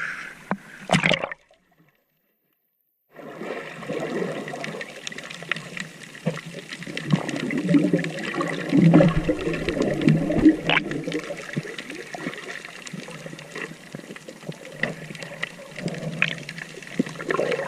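Seawater sloshing and splashing close to the microphone, with a brief silent gap a couple of seconds in before the splashing resumes.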